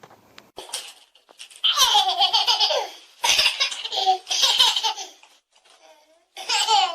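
A small child laughing hard in about four bursts, with short pauses between them.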